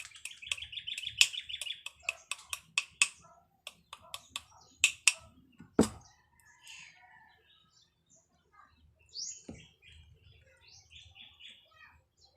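A bird chirping and trilling: a fast buzzy trill over the first two seconds, then scattered chirps and a quick rising note later on. Throughout there are sharp clicks and taps, with one louder knock about six seconds in, from work on the stove's parts.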